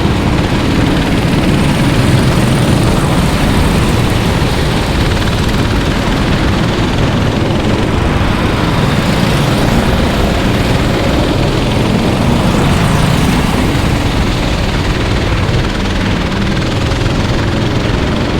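Several racing kart engines running at speed around the track, a loud, steady, buzzing drone that never stops.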